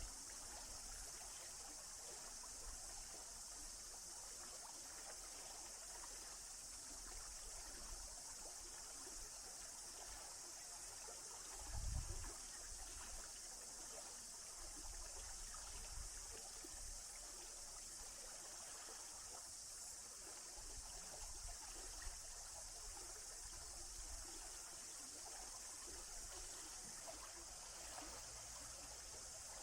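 Faint, steady rushing of a forest stream, with a brief low thump about twelve seconds in.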